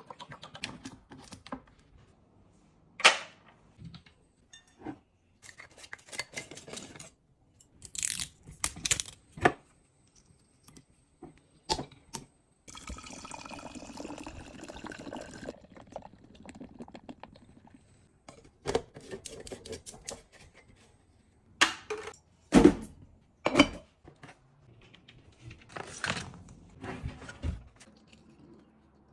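Household objects being handled and put away: a string of separate clicks, knocks and taps, with a steady hiss lasting about three seconds around the middle.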